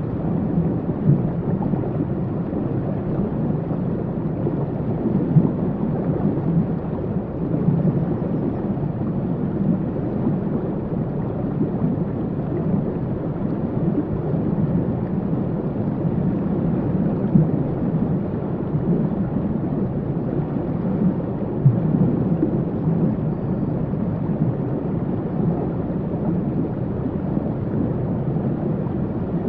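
Waterfall: a steady, low, deep rushing of falling water with small flickering surges.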